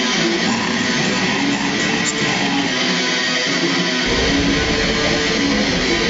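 Black metal music: dense, distorted electric guitars strumming held chords. A heavy low end comes in suddenly about four seconds in.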